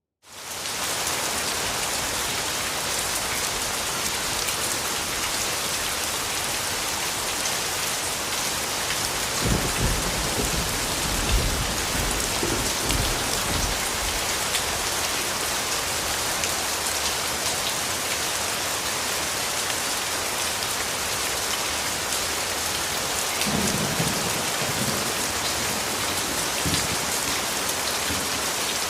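Steady rain falling, an even hiss that fades in from silence right at the start. Low rumbles of distant thunder roll in about ten seconds in and again, more briefly, about twenty-four seconds in.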